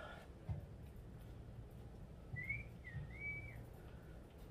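A bird gives two clear whistled notes a little past halfway, a short rising one followed by a longer arched one, with a few soft low knocks.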